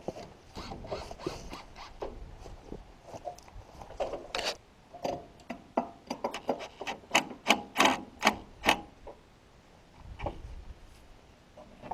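Irregular series of sharp clicks and knocks from hand-tool work on the sawmill's frame and rails, coming quick and loudest a little past the middle.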